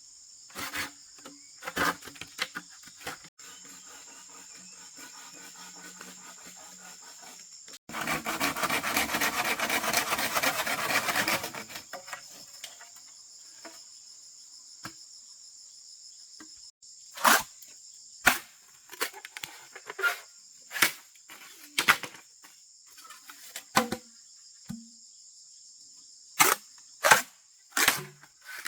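Crickets chirring steadily in a high, even drone, with scattered sharp knocks, more frequent in the second half. About eight seconds in comes a dense rasping noise lasting some three and a half seconds, the loudest sound here.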